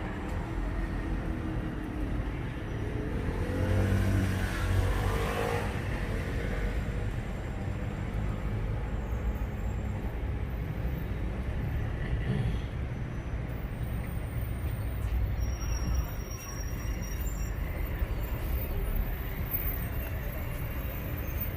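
Street traffic: a steady low rumble of vehicles running, with one louder vehicle passing about four to five seconds in.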